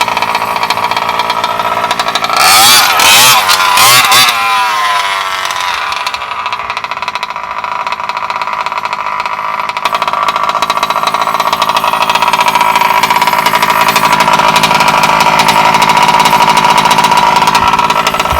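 The Bartolone Racing BR40 big-bore two-stroke gas engine in a 1/5-scale Losi 5ive-T RC truck, running at speed. It revs hard and loudest for about two seconds, a couple of seconds in, with the pitch wavering up and down. It then settles into a steadier high drone that gradually grows louder near the end.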